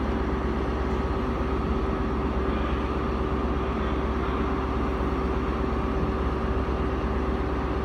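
HST diesel power car (Class 43) idling steadily while standing at the platform, a constant low hum with a steady tone over it.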